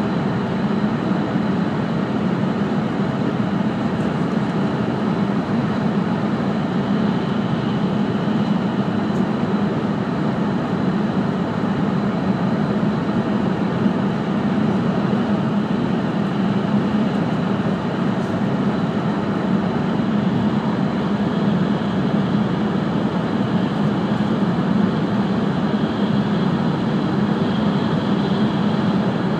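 Steady running noise inside the passenger cabin of an E5 series Shinkansen train: a continuous rumble with a low hum.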